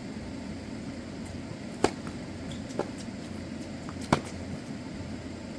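Tennis ball struck sharply by a racket twice, about two seconds apart, with a softer bounce on the court between the strokes, over a steady low background hum.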